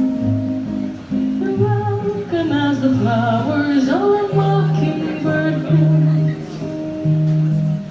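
Live rockabilly band music led by guitar, with a low bass line stepping from note to note underneath.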